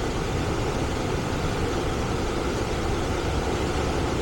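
Steady, even noise of a residential HVAC system running in cooling mode.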